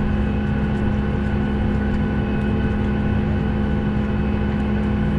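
Steady mechanical drone inside a Boeing 737's cabin parked at the gate, with an unchanging low hum and fainter steady tones above it.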